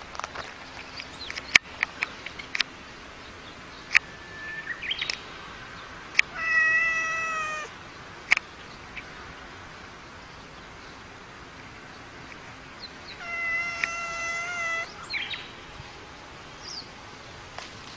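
Domestic cat giving two long, steady-pitched yowls about a second long each, several seconds apart, with scattered sharp clicks and taps in between.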